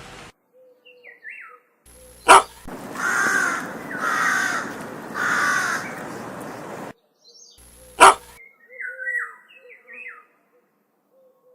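Crow cawing three times, harsh calls about a second apart, with faint chirps of small birds before and after and a sharp click on each side of the calls.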